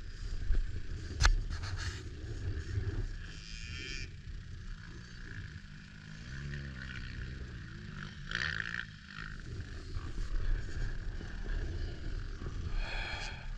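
Dirt bike engine running, its pitch rising and falling about halfway through, with a couple of sharp clicks early on.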